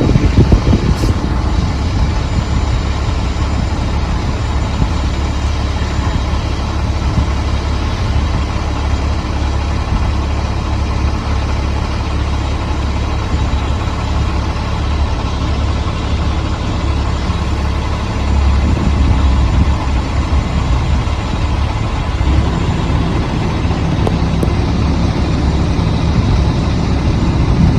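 A vehicle engine idling with a steady low rumble. It swells briefly about two-thirds of the way through.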